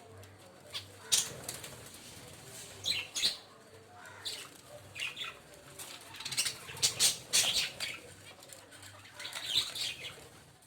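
Small caged finches fluttering their wings in short, irregular bursts, with a few brief high calls among the flutters.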